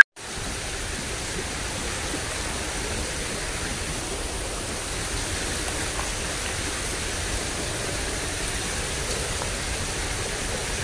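Steady rushing of flowing water in a ditch after rain: an even hiss that holds level without breaks.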